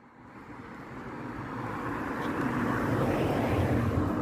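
A passing vehicle, its rumble growing steadily louder as it approaches.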